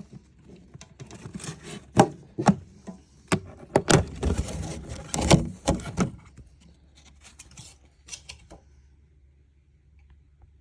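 Hard objects being handled: a run of sharp knocks and taps with rubbing and scraping between them, stopping after about eight and a half seconds.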